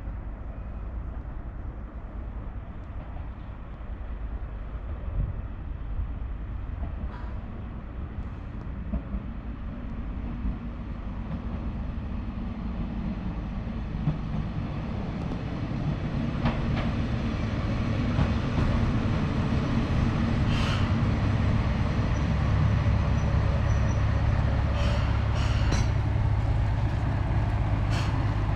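Diesel railcar on the Kashima Rinkai Railway coming nearer, its low rumble growing steadily louder. A few sharp clicks or squeaks from the wheels and track come in the second half, and a steady low engine drone settles in near the end.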